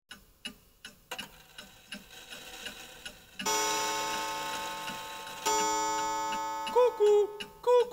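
Cuckoo clock ticking about twice a second. It strikes two ringing chimes that fade slowly, then gives two two-note cuckoo calls, high then lower, near the end.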